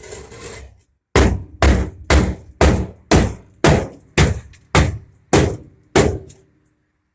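A brief scrape, then about ten sharp metal strikes at roughly two a second on the Jeep J20's rusted sheet-steel floor pan, each with a short ring.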